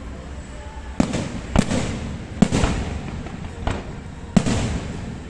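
Aerial fireworks bursting: about five sharp bangs at uneven intervals, each trailing off in a rolling rumble.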